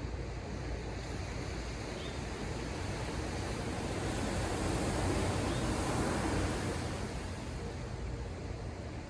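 Ocean surf heard from above the shore: a wave builds and breaks about halfway through, then washes back out, over a steady low rumble of the sea.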